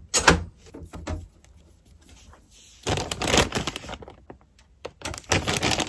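Handling noise of a PC power supply and its cables being fitted into a case: a sharp knock at the start and another about a second in, then scraping and rustling about three seconds in and again near the end.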